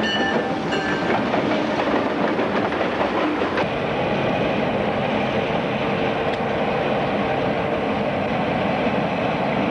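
Norfolk Southern freight train rolling past close by, its wheels clattering over the rail joints among the sound of the diesel locomotives. About three and a half seconds in the sound shifts to the steadier running of RJ Corman's EMD diesel locomotives moving along the track.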